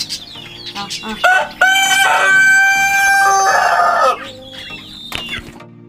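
Country rooster crowing once in answer to being called by name: one long, loud crow of about two and a half seconds, after a few short clucks.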